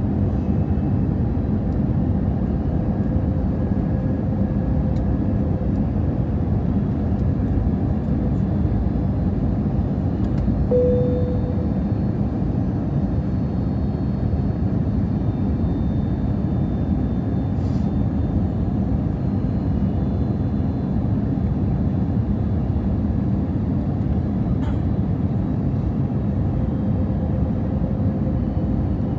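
Steady cabin noise of an Airbus A320 airliner in flight: a low, even rush of airflow and engines. A faint steady hum rides on top and swells briefly about eleven seconds in.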